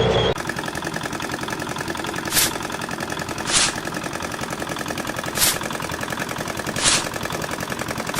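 Toy remote-control excavator running, with a fast, even mechanical clatter and a short hiss every second or two.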